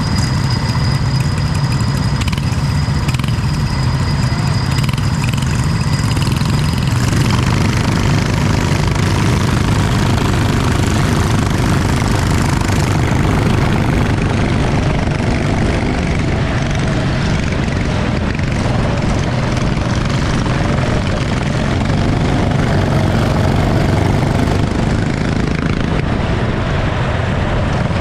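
Racing kart engine running, loud and steady, with a constant hiss over it.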